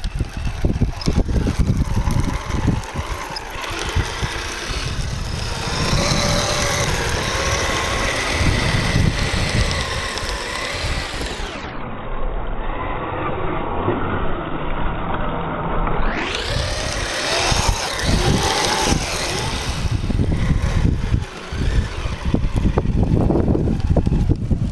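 Electric motor and gear drive of Kyosho Blizzard RC snowcats whining, the pitch rising and falling with the throttle, over wind noise on the microphone.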